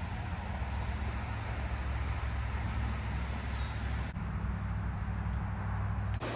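A vehicle engine running steadily, a low, even hum.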